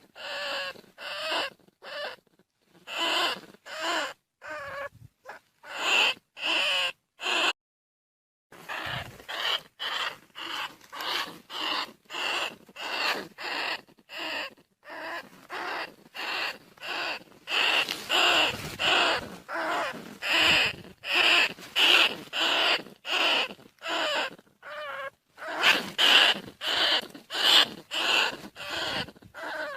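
Bandicoot rat calls: short, sharp squeaks repeated about twice a second in a long string, with one brief break about eight seconds in. These are the calls played as a lure to draw field rats in.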